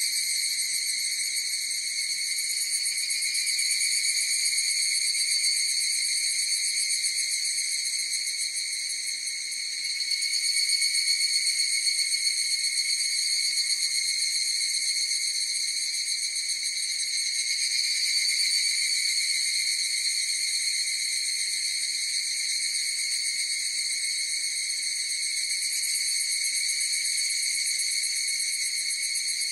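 A chorus of higurashi, evening cicadas (Tanna japonensis), calling steadily with their calls overlapping into a continuous high, rapidly pulsing ringing that swells a little about a third of the way in and again past the middle.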